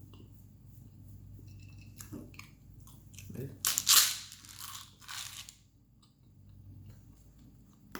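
Close-miked crunching and chewing of food: a few small clicks, then loud crunching bites about halfway through.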